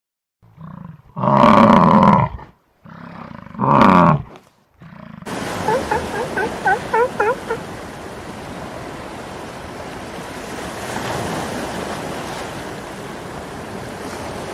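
Two loud, drawn-out animal calls, each about a second long. After an abrupt change, steady surf noise follows, with a quick flurry of short, high chirping calls over it.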